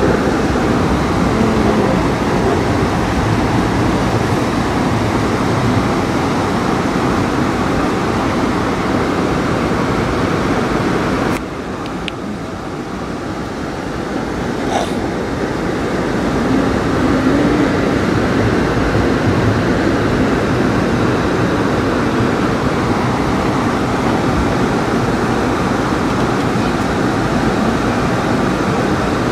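Steady rumble and rush of the Amtrak California Zephyr passenger train running on the rails, heard from inside the car. The noise drops abruptly about eleven seconds in and builds back up over the next several seconds.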